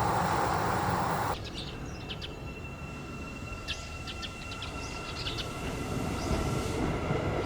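For about the first second a train is running past, then the sound cuts to quieter trackside ambience with birds chirping, while the low rumble of an approaching Seibu 9000 series electric train builds near the end.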